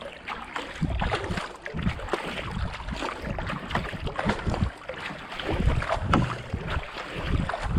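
Kayak paddle blades splashing in and out of the water stroke after stroke, with wind rumbling on the camera microphone.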